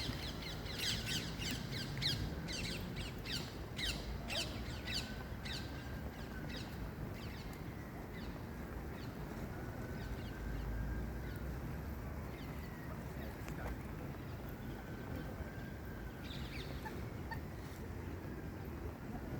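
Birds calling in a garden: a bird gives a quick run of short, high chirps that slows and fades after about six seconds, while faint drawn-out whistles rise and fall every few seconds, over a steady background hiss.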